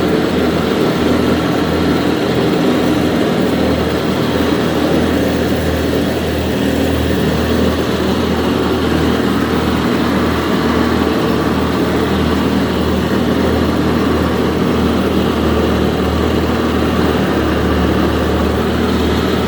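1941 Farmall A tractor's four-cylinder engine running steadily at a constant speed.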